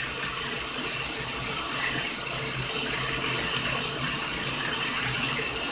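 Bathtub tap running, water pouring steadily into a filling tub.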